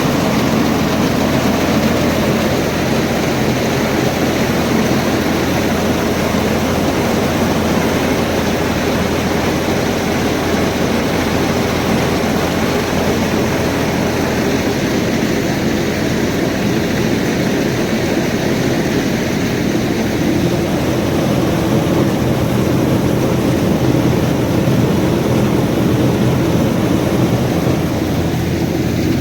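Tractor engine running steadily, powering a rice huller that husks paddy: loud, continuous machine noise with no break.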